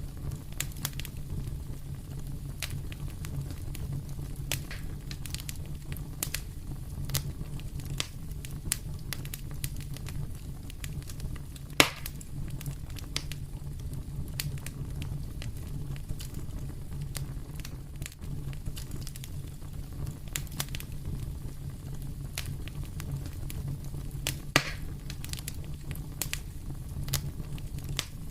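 Fire in a fireplace crackling over a steady low rumble, with many small snaps and two sharper, louder pops, one about twelve seconds in and one near the end.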